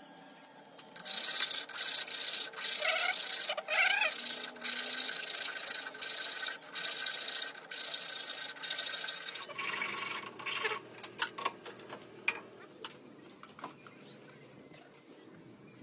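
Abrasive scraping on steel in repeated strokes with short breaks, the kind of sound made when a gear is ground, filed or brushed during repair, followed by a few scattered clicks and knocks of metal on metal.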